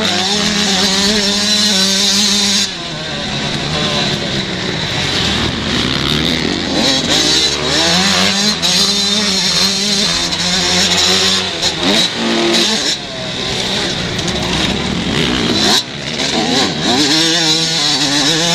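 Motocross bikes racing, their engines revving up and dropping back again and again through acceleration and gear changes, with more than one bike heard at once at times.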